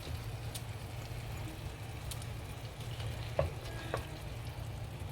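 Creamy garlic and onion gravy sizzling steadily in a frying pan, with a few light clicks of the utensil as it is stirred.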